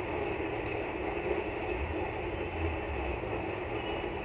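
Moong dal batter sizzling steadily in hot ghee in a frying pan, with a low hum underneath.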